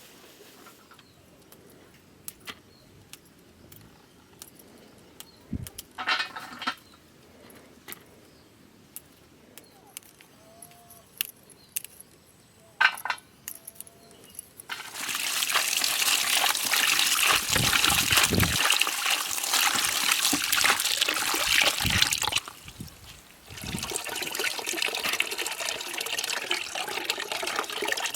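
Scattered light clicks and knocks of pots and utensils being handled. About halfway through, a loud, steady rush of water being poured or running starts and goes on, breaking off briefly once before it resumes.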